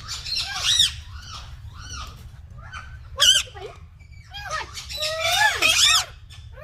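Green parrots squawking: a series of loud, harsh calls, each arching up and down in pitch, with a sharp single squawk about three seconds in and a longer run of overlapping calls near the end.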